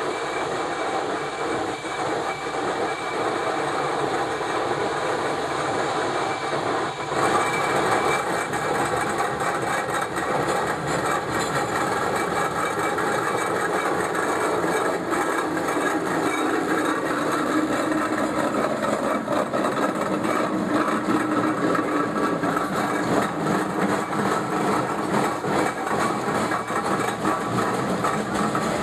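Steam traction engine running along the road: a steady rumble with fast, dense clanking, which grows louder about seven seconds in.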